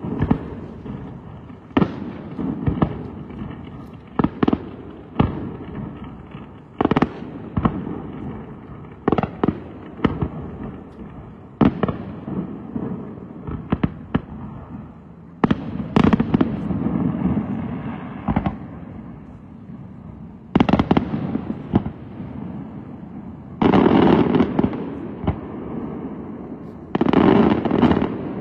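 Aerial fireworks display: a quick, irregular succession of shell bursts banging, each trailing off in a rolling rumble. Twice near the end the bangs run together into longer, denser volleys.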